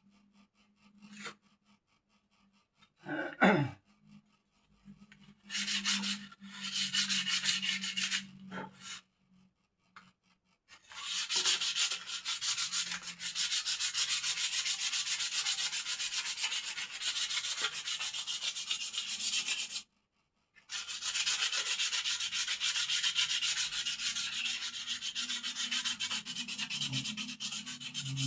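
Bird cage being sanded smooth: dense, steady scraping that starts about five seconds in, comes in spells with short pauses, and runs longest in the second half. A single short knock comes just before the sanding starts.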